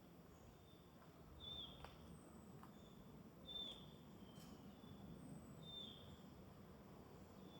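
A woodland songbird repeating a short, high call about every second or so, faint over quiet forest background.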